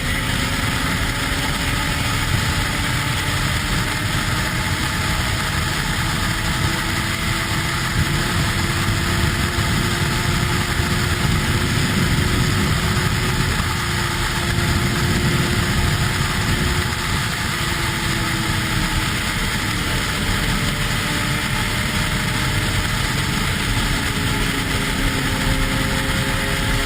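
A vehicle engine running steadily with no sharp revs, its pitch drifting slowly up and down.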